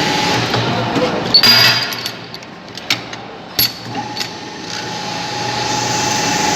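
Small ceiling-fan-shaft turning machine running with a steady whine, broken by a short loud noisy burst a little over a second in and then three or four sharp clicks. The whine comes back about four seconds in and grows louder toward the end.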